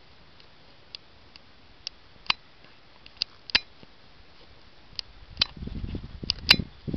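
Scattered sharp ticks, about a dozen at uneven intervals, like sparse raindrops striking a hard surface, with a low rumble of thunder building from about five seconds in.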